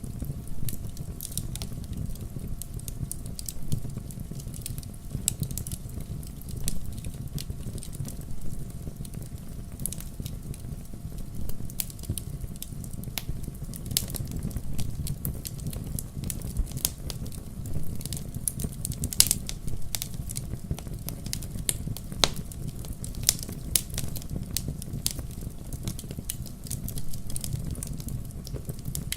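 Fire crackling in a fireplace: a steady low rumble of flames with frequent sharp pops and snaps at irregular intervals.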